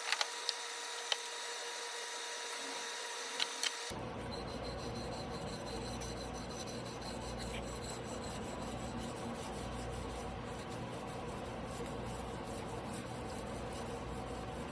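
Steel knife blade scraping on a whetstone during hand sharpening, with a few sharp clicks, for the first four seconds. After an abrupt cut, a steady even hiss follows.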